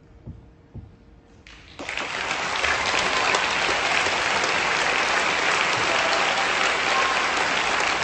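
Audience applause breaks out about two seconds in after a hushed moment and quickly swells into steady clapping.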